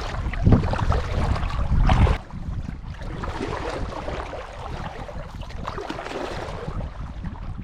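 Water lapping and splashing around a kayak on a lake, with wind rumbling on the microphone for about the first two seconds before it drops to a quieter, even wash of water.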